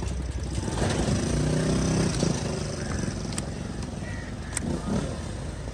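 Street traffic: a motor vehicle's engine rising over a steady low rumble about a second in, with a few sharp clicks later on.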